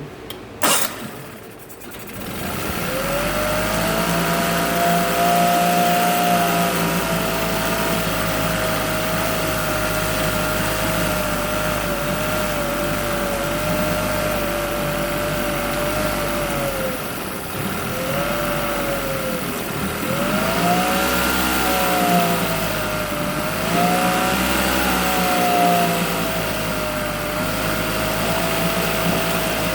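Yamaha T9.9 outboard's four-stroke twin running cold in a test bucket just after a choked cold start. Its speed sags and picks up again a few times in the second half. There is a sharp knock just under a second in.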